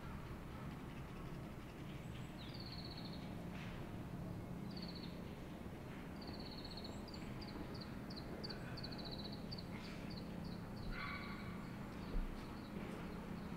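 Woodland birds singing: repeated high chirps and quick trills, over a steady low background of outdoor ambience. A single soft thump comes near the end.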